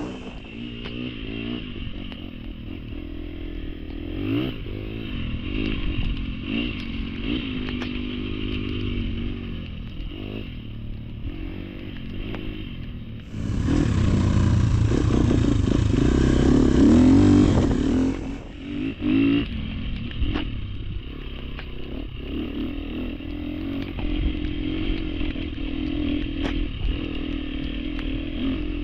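Off-road motorcycle engine revving up and down as it rides a trail, with clattering and knocks over the rough ground. It grows louder and fuller for a few seconds about halfway through, then falls back.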